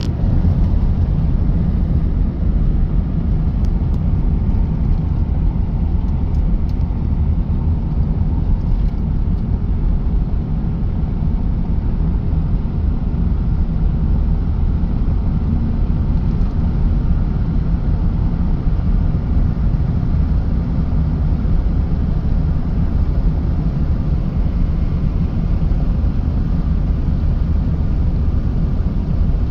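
Storm wind buffeting the microphone: a steady low rumble with no letup.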